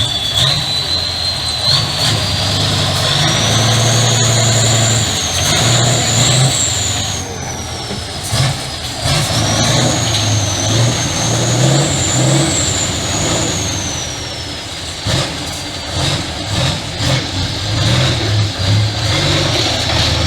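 Trial truck's engine revving up and down under load, with a high whine that climbs and falls in long sweeps alongside it, and a few sharp knocks.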